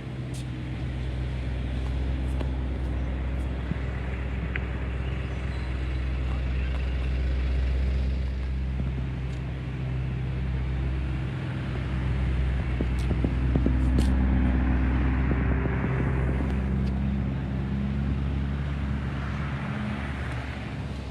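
A car engine running close by amid street traffic, a steady low hum that swells louder twice as vehicles pass.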